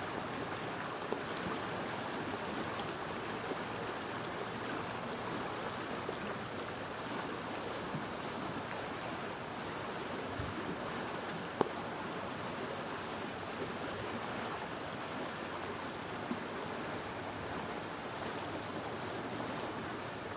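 Steady rush of water, with a single sharp click about twelve seconds in.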